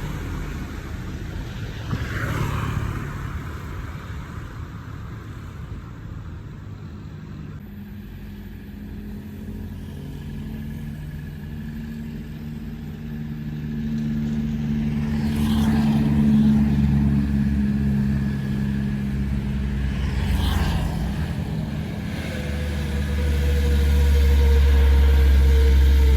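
Heavy truck engine straining up a steep grade at a low, steady pitch, with other vehicles passing in brief whooshes. Near the end a loud deep rumble builds as a truck comes close, its engine note slowly falling.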